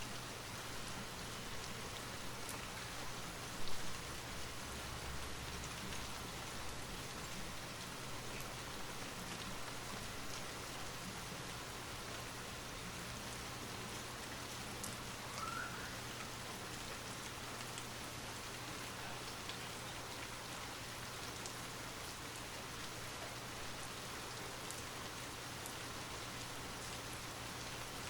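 Light rain falling steadily, an even hiss scattered with faint individual drop ticks, with one brief louder tap about four seconds in.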